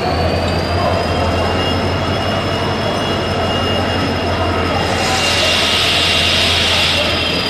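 Passenger train coaches rolling slowly past the platform as the express pulls in to stop. Steady high-pitched squealing and a low hum run underneath, with a hissing rush about five seconds in.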